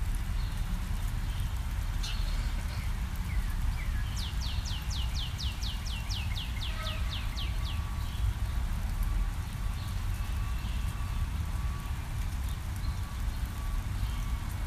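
Steady low rumble of background noise. About four seconds in, a bird sings a quick run of about a dozen high notes, each sliding down in pitch.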